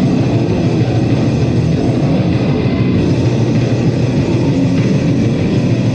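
Live band playing loud heavy metal, with electric guitar at the front of the mix.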